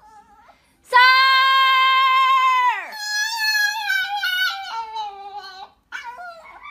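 Small poodle howling: one long, held high note that slides down and breaks off about three seconds in, followed by a wavering, broken howl.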